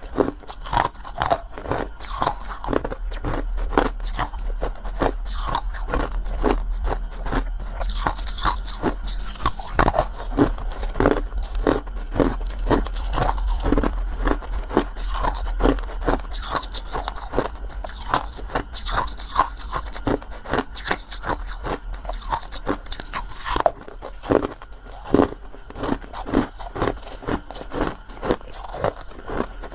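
Close-miked biting and chewing of something hard and crunchy: a steady run of crisp crunches, several a second.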